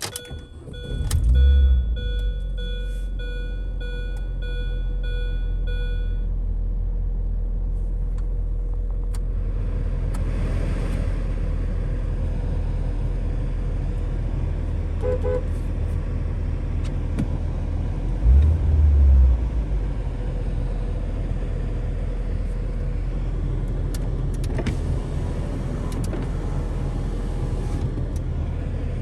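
2003 Mini Cooper S's supercharged four-cylinder engine on a cold start: it catches about a second in with a brief flare of revs, then settles into a steady idle, with one short rev about two-thirds of the way through. A repeating beep sounds over the first six seconds.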